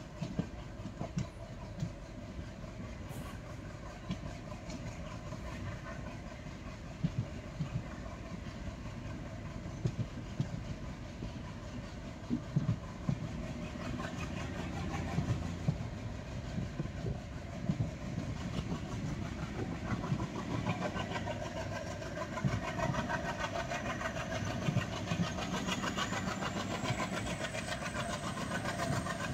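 Rameswaram–Bhubaneswar Express train running on the rails, with scattered sharp clicks of the wheels over the track. It grows gradually louder, and a thin high whine rises in pitch over the last third.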